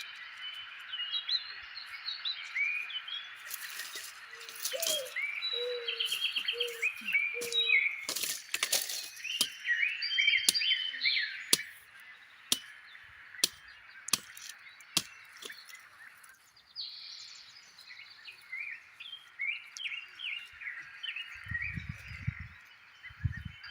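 Birds chirping and singing over a steady outdoor hiss. Sharp clicks sound every second or so through the middle, and dull low thumps come near the end.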